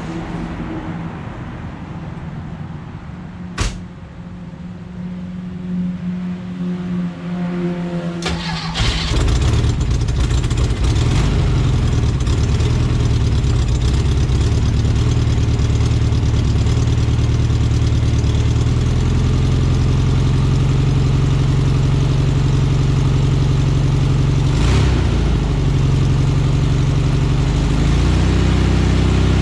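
A 1969 VW Karmann Ghia's air-cooled flat-four is cold-started after sitting for two weeks. There is a click about three and a half seconds in, then a few seconds of cranking that rises in pitch. The engine catches about eight seconds in and runs at a steady idle.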